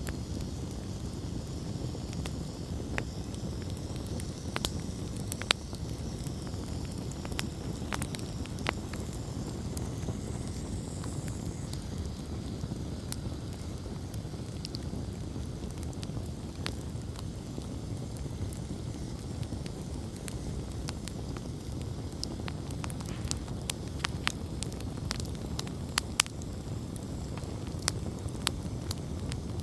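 Wood campfire crackling, with scattered sharp pops and snaps over a steady low rumble; the pops come more often in the last several seconds.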